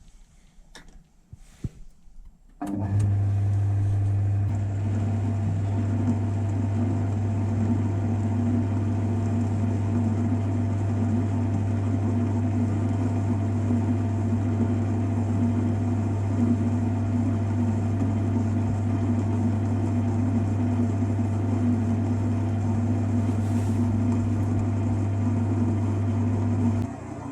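A few clicks, then a lathe switched on about two and a half seconds in, its motor running with a steady low hum that drops away just before the end.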